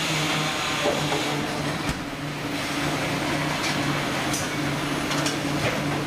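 Steady low machinery hum with a constant hiss and scattered clicks and clatter, as of a fishing vessel's engine and on-deck processing gear running.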